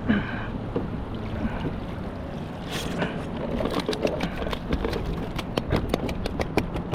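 A lobster pot being handled on a kayak: water splashing and trickling, then an irregular run of sharp clicks and rattles in the last half, several a second.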